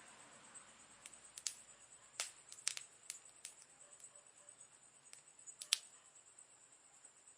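Wood campfire crackling: irregular, sparse snaps and pops, the sharpest about two, two and a half and five and a half seconds in, over a faint hiss and a steady high-pitched tone.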